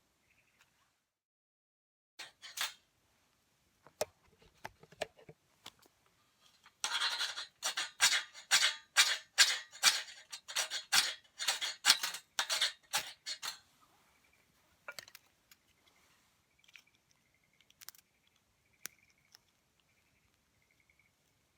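A run of quick, even scraping strokes, about three to four a second, lasting some six seconds, with scattered sharp clicks before and after it.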